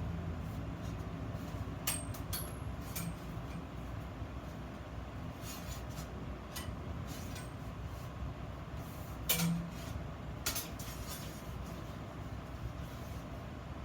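Scattered clinks and knocks of iron pieces being handled and set down, over a steady low hum.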